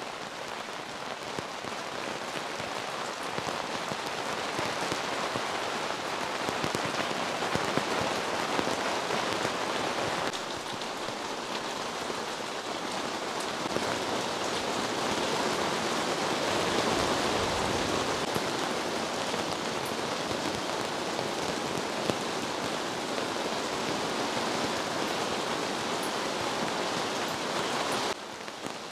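Heavy rain falling steadily in a continuous downpour.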